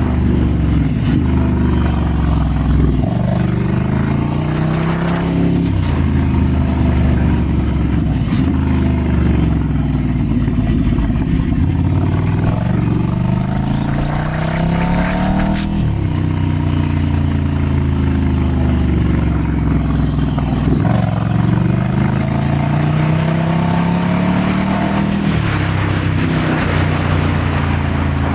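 Ducati Scrambler's air-cooled L-twin engine running under way. The revs climb and drop again and again every few seconds as the bike accelerates, shifts and rolls off the throttle.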